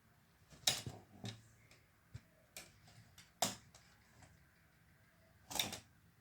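A handful of irregular sharp clicks and light knocks at uneven spacing, the loudest a little under a second in and about halfway through, with a longer, rougher one near the end.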